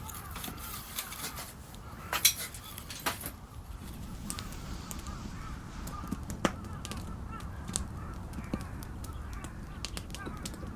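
Wood fire crackling, with sharp irregular pops, the loudest a few seconds in. Birds call in the background.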